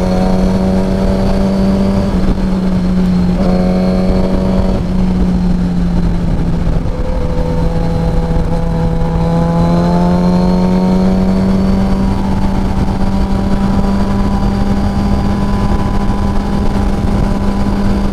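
Suzuki GSX-R 1000's inline-four engine cruising at highway speed, a steady drone whose pitch shifts about two, three and a half and five seconds in, then rises slowly around eight to eleven seconds in. Constant wind rush runs underneath.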